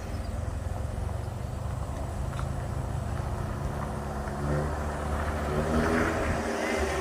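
A truck's engine running steadily, getting louder about halfway through.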